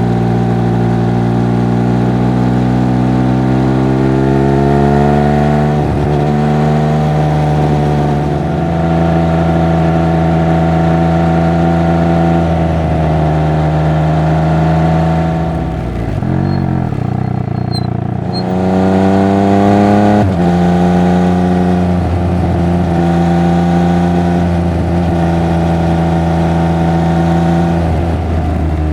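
Triumph Speed Triple 1200 RR's inline three-cylinder engine and exhaust under way, the pitch climbing as it accelerates and dropping at each gear change. About two-thirds of the way through the throttle eases off briefly and the sound dips before it pulls hard again.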